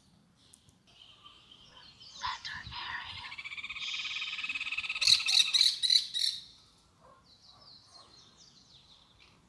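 Frogs calling in overlapping rapid pulsing calls that build and are loudest about five to six seconds in. Fainter chirps follow near the end.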